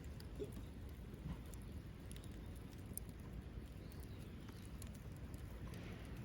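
Small wood fire crackling, with scattered sharp pops over a low, steady rumble.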